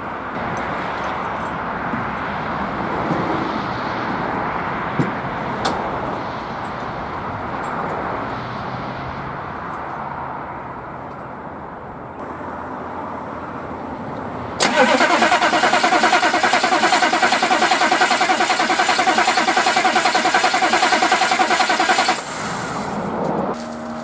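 Starter motor cranking a 6.2 litre diesel engine: a sudden loud, fast, even cranking about 14.5 seconds in that lasts about seven and a half seconds and stops without the engine catching. The owner suspects a fuel system or injection pump problem. Before the cranking there is a steady, quieter background hum.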